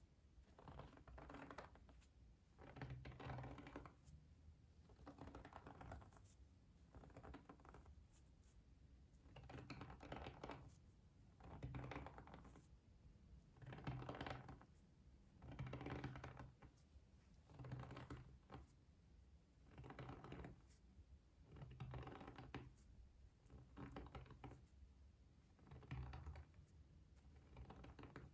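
Soft ASMR trigger sounds: quiet scratching or tapping strokes repeating at a slow, even pace, about one every two seconds.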